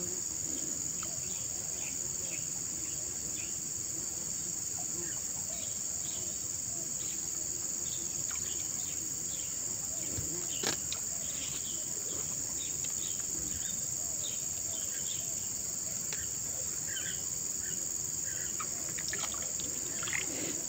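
Steady, high-pitched drone of insects, crickets by the sound of the tags, with scattered short chirps over it and a single sharp tap about halfway through.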